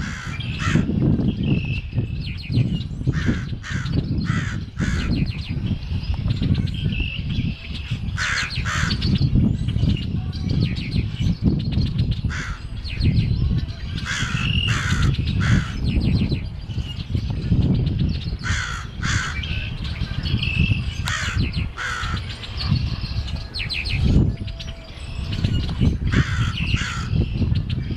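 A crow cawing repeatedly in short runs of harsh caws, a run every few seconds, with fainter chirps of other birds and a steady low rumble underneath.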